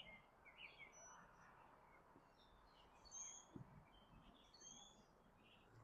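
Faint wild birds chirping, many short calls scattered throughout, with one soft thump about halfway through.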